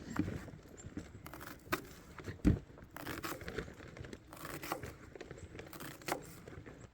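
Things being handled at close range: scattered clicks and light knocks with rustling and crinkling between them, the loudest knock about two and a half seconds in.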